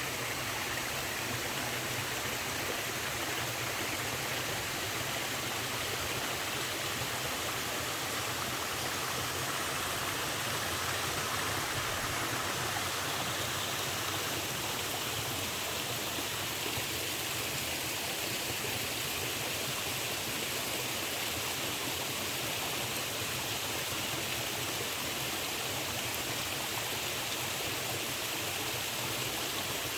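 Waterfall with a somewhat low flow of water, a steady, gentle rush of falling and splashing water.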